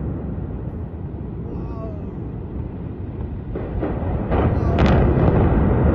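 Rumble of high-rise apartment blocks collapsing in an explosive demolition. It grows louder about three and a half seconds in, with several sharp bangs.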